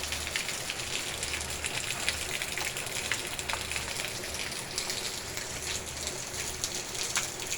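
Steady rain falling, an even hiss full of fine drop ticks.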